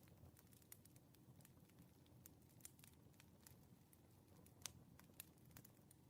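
Faint crackling wood fire: scattered sharp pops and snaps over a low, steady rumble, with two louder snaps in the second half.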